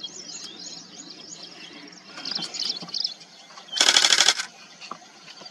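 Small birds chirping and twittering in grassland, with one loud buzzy call lasting about half a second about four seconds in.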